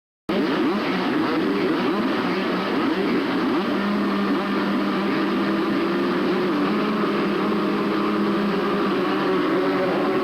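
Several two-stroke motocross bikes running together, their buzzing engine notes overlapping and rising and falling in pitch as the riders work the throttles. The sound starts abruptly just after the first moment.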